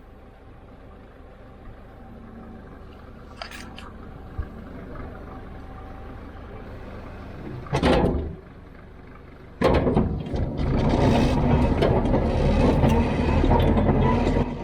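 An engine runs low and steady, then comes a short loud burst about eight seconds in, and near ten seconds a heavy engine suddenly runs much louder and keeps going.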